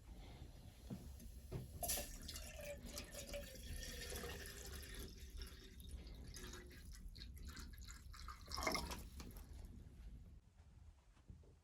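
Water dripping and trickling, with many small irregular clicks.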